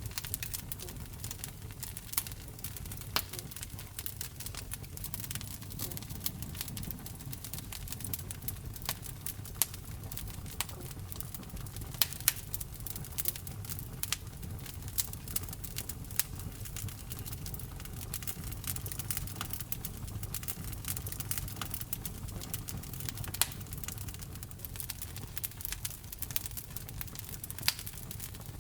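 Wood fire burning in a fireplace: an irregular crackle of sharp pops and snaps over a low steady rumble of the flames.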